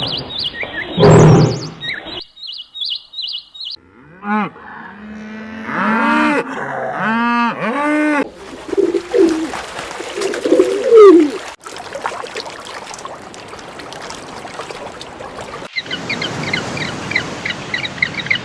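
A run of different animal calls cut together: first a row of short, high chirps, then a series of short rising-and-falling calls from a farm animal, a long rough noisy stretch, and rapid high bird chirping near the end.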